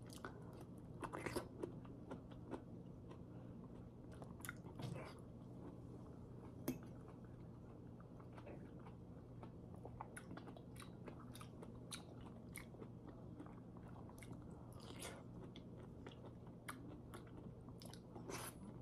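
Faint, close chewing of soft, syrupy yellow peach slices: scattered wet mouth clicks, with one sharper click about seven seconds in, over a steady low hum.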